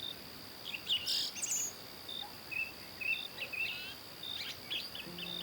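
Many birds chirping and trilling in short, scattered calls over a steady high-pitched insect drone, with one louder, harsher call about a second in. Soft sustained music notes come in just before the end.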